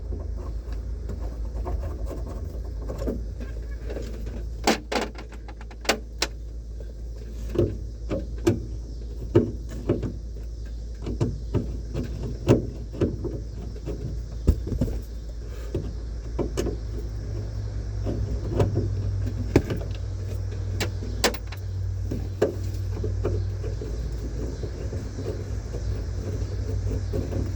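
Scattered clicks, knocks and rattles of small trim pieces, screws and a screwdriver being handled against the roof trim inside a car's cabin, over a steady low hum.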